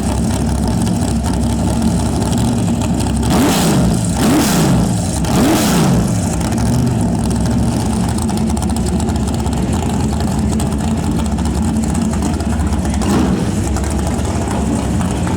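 Racing car engine idling, with three sharp throttle blips about three and a half to five and a half seconds in, then settling back to a steady idle.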